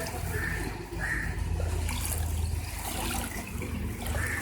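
Water running and trickling, with a steady low rumble underneath.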